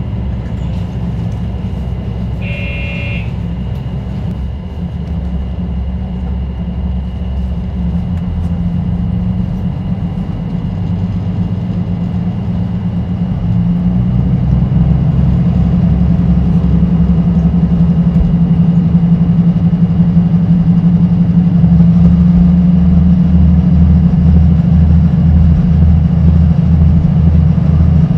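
Train running, heard from its front cab, growing louder as it gathers speed. A short beep sounds about three seconds in, and near the end a regular low beat of about two to three knocks a second comes in.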